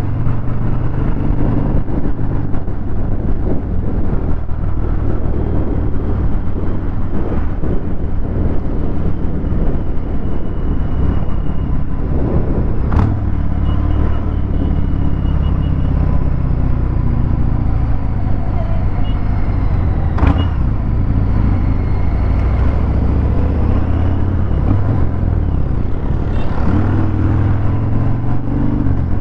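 Harley-Davidson Fat Bob 114's Milwaukee-Eight 114 V-twin through a Vance & Hines Hi-Output 2-into-1 exhaust, running steadily at riding speed with the note rising and falling a little. Two sharp clicks, about 13 and 20 seconds in.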